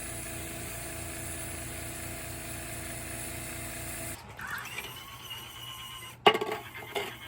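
A motor running steadily with a fast pulsing hum, which cuts off about four seconds in; a sharp knock follows near the end.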